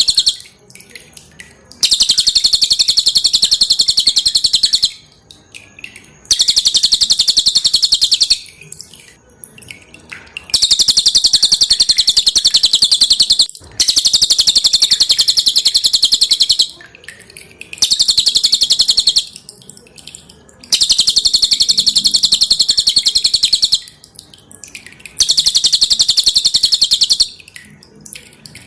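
Cililin songbird singing loud, dense phrases of very rapid high-pitched notes, each lasting a couple of seconds, repeated over and over with short pauses between.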